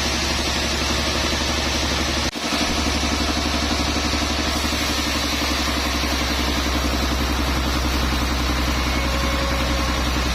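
An engine running steadily, with a brief sudden dropout about two seconds in.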